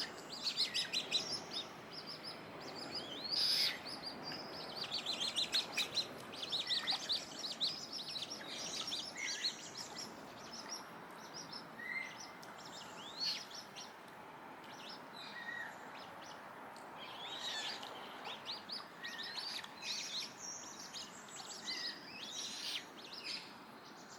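Several birds chirping and calling in quick, overlapping runs of short high notes and trills, over a steady background hiss.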